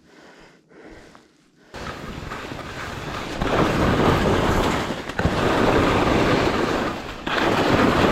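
Wind rushing over a helmet-mounted action camera's microphone, with skis sliding on snow during a downhill run. It comes in suddenly about two seconds in and grows louder a second or so later, easing off briefly twice.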